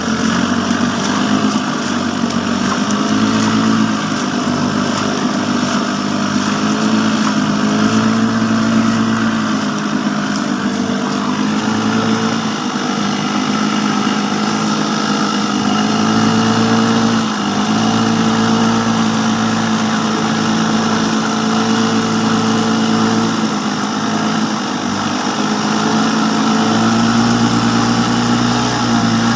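A small engine running steadily at a constant speed, its pitch wavering slightly up and down.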